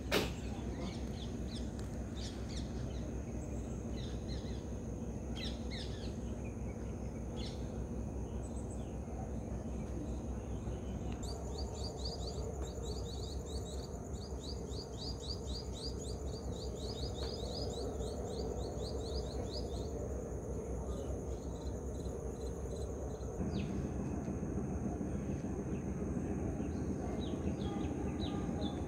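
Birds chirping and calling over a steady low background noise, with one bird giving a fast run of repeated high notes for about nine seconds midway. A sharp click right at the start, and the background grows a little louder about three-quarters through.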